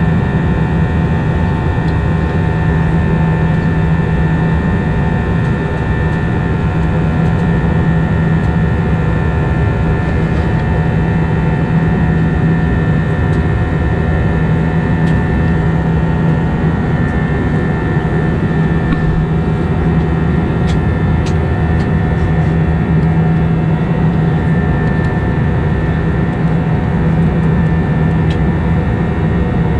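Steady cabin noise inside an Airbus A320 in flight: a constant jet-engine hum with a strong low drone and several steady tones over the rush of airflow.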